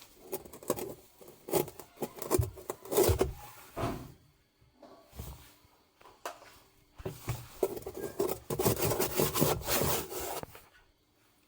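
Irregular scraping and rubbing in uneven strokes, busiest in the second half, then stopping shortly before the end.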